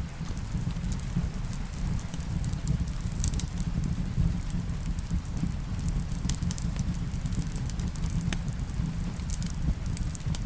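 Fireplace ambience: wood fire burning with a steady low rumble and frequent small sharp crackles and pops, over a soft hiss of rain.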